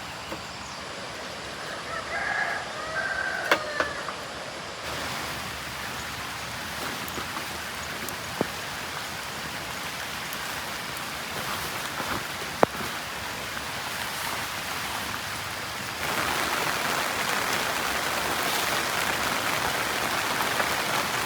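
Heavy rain hissing steadily, growing louder in steps about five seconds in and again past the middle. A short animal call sounds about two seconds in, and a few sharp knocks cut through the rain.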